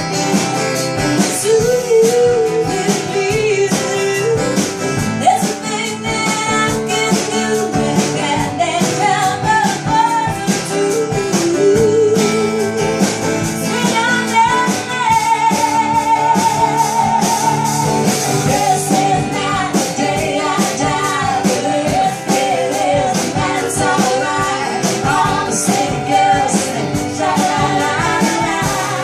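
Live folk-rock band playing a passage without lyrics: guitar accompaniment under a wavering lead melody line with vibrato.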